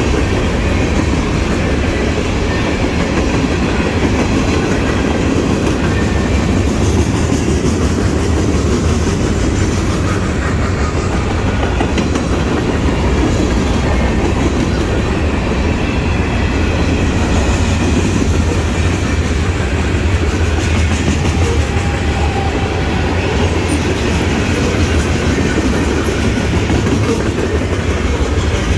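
CSX mixed freight train rolling steadily past at close range, its cars' wheels clattering over the rail joints in a loud, unbroken rumble.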